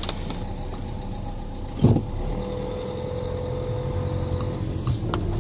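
Renault Grand Scenic's diesel engine running steadily at low speed, heard from inside the cabin, with a short thump about two seconds in.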